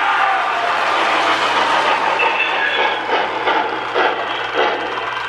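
Lionel 2055 Hudson O-gauge toy steam locomotive and tender running around the track: a steady running noise with a regular, rhythmic clatter that grows more distinct about halfway through.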